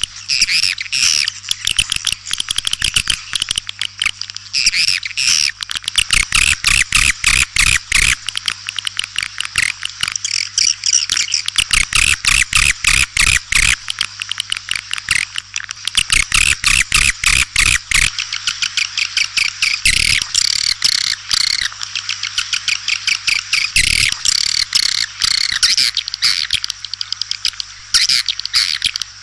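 Swiftlets twittering in a dense, continuous chatter of rapid chirps, as in a swiftlet lure-call recording of the kind played to draw birds into a nesting house. A steady low hum runs underneath.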